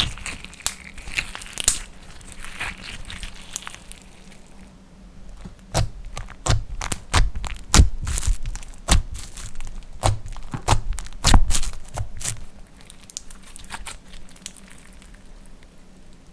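Slime being kneaded and pressed by hand, giving a run of sharp clicks and pops that come thickest in the middle and thin out towards the end.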